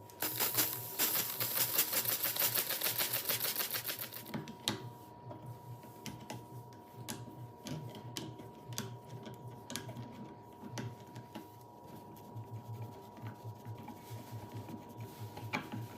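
A fast run of mechanical clicks for about the first four seconds, then scattered single clicks and taps, over a faint steady tone.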